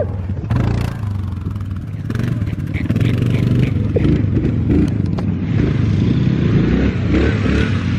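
Dirt bike engine running, with a few sharp clattering knocks about a second in; the engine gets louder from about two and a half seconds in.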